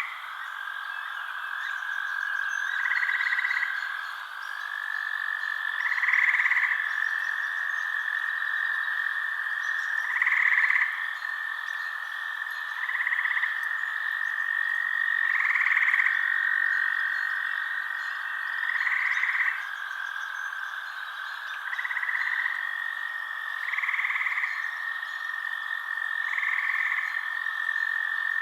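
Frogs calling at night: a steady trilling chorus, with a louder short call repeating about every three seconds.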